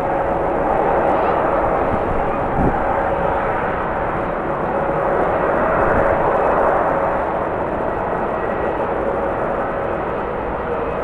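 Jet airliner's engines running: a steady rushing noise with a held whine, swelling about six seconds in, with a single knock about two and a half seconds in.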